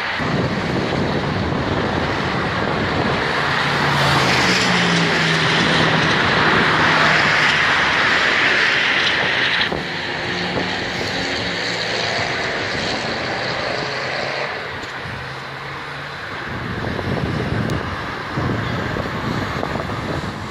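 Corvette V8 engines running out of sight around the circuit, heard over a steady rush of noise, with the sound dropping suddenly about ten seconds in. Near the end, louder swells come as more cars approach the corner.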